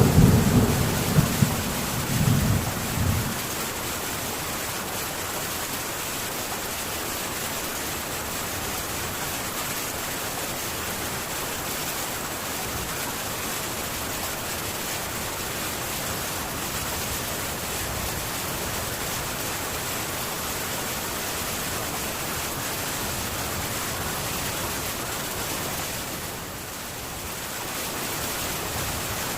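Heavy rain on a metal tin roof, a steady even patter, with a low thunder rumble dying away over the first few seconds. The rain eases briefly near the end.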